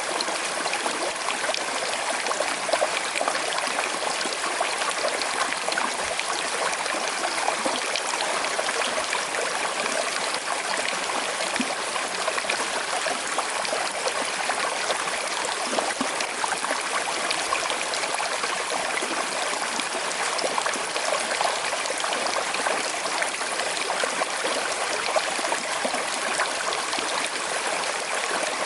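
Small river with a slight current flowing and trickling steadily, a continuous bright splashing murmur.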